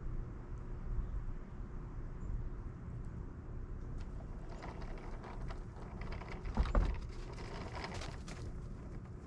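Snowblower engine running steadily. In the middle there is a stretch of crackly, scraping noise with small knocks, loudest about two-thirds of the way through.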